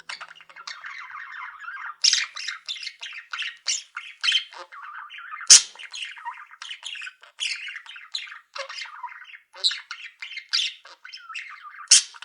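A room of caged pet birds (budgerigars, canaries and zebra finches) chattering, chirping and squawking continuously, with a few sharp louder notes, the loudest about halfway through.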